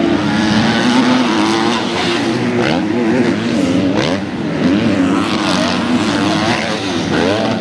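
Motocross bike engines racing, their pitch rising and falling as the riders throttle on and off, with several engines heard at once.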